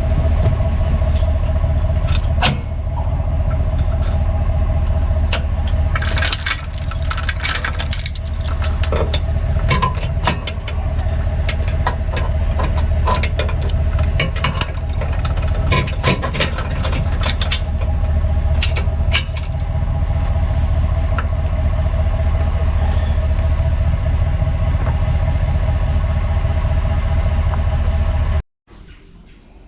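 Vehicle engine running steadily with a low drone, with bursts of rattling and clanking between about six and nineteen seconds in; the sound cuts off suddenly near the end.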